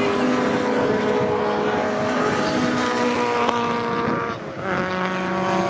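Several racing touring car engines running hard together, their engine notes overlapping at different pitches as the cars go by, with a brief dip in loudness about four and a half seconds in.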